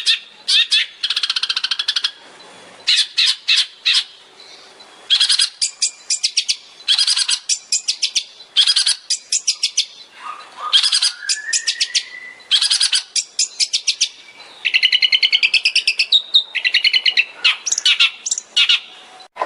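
Long-tailed shrike (cendet) singing in rapid-fire bursts of fast, sharply repeated notes and trills, the 'tembakan' style, with one rising whistled glide about ten seconds in.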